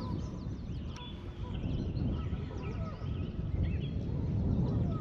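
Birds calling around a lake, many short chirps and whistled notes scattered through, over a steady low rumbling noise.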